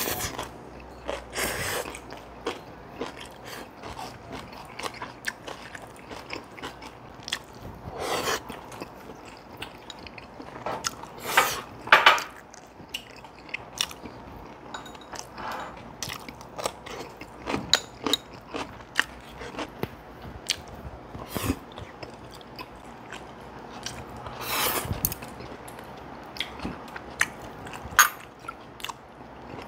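People eating Korean home-cooked side dishes such as kimchi, pickles and stir-fried fish cake: close chewing, biting and crunching, with scattered sharp clicks and a few louder bursts.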